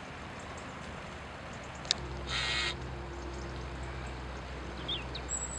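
Outdoor background noise with a sharp click, then a short harsh bird call a little over two seconds in and a few faint bird chirps near the end. A steady low hum starts about two seconds in.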